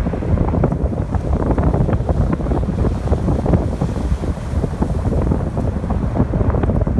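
Strong wind buffeting the microphone with a low, crackling rumble, over ocean waves washing onto the shore.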